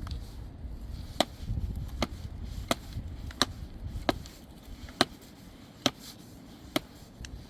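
Chopping with a hand tool: about eight sharp, evenly spaced blows, roughly one every 0.8 seconds, over a low rumble.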